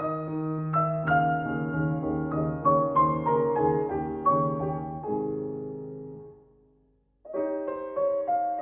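Solo piano playing a phrase of notes that ends on a held chord, which dies away about five seconds in; after a short pause a new phrase begins.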